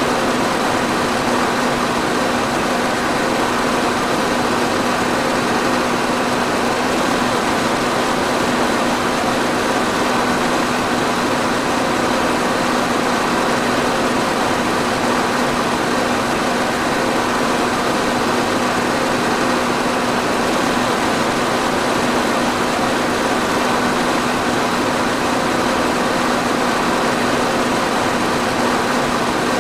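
Electric fan running steadily: an even whoosh of moving air with a constant motor hum under it.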